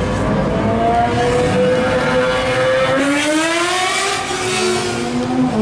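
1968 Camaro pro street car's engine running loud under throttle. Its note climbs steadily, rises sharply about three seconds in, then drops back.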